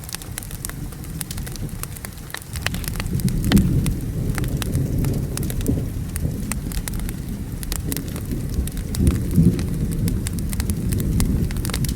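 Steady rain with rolling thunder that rumbles up about two and a half seconds in and swells again later, over the frequent sharp crackles and pops of a wood fire.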